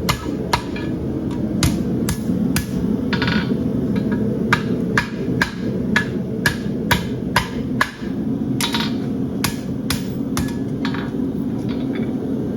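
Farrier's hammer striking a hot steel horseshoe on an anvil, a run of sharp blows about two to three a second that bend the bar round into shape, with a brief pause about two-thirds of the way in. A steady low noise runs underneath.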